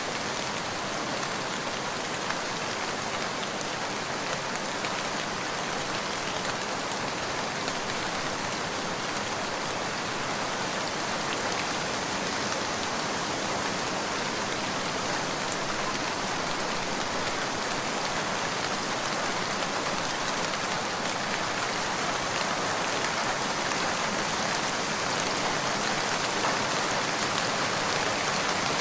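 Steady rain falling, an even hiss with scattered drop ticks, swelling slightly louder near the end.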